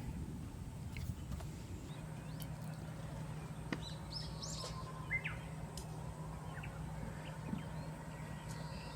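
Birds chirping, a cluster of short calls in the middle, over a steady low hum, with a few sharp clicks scattered through.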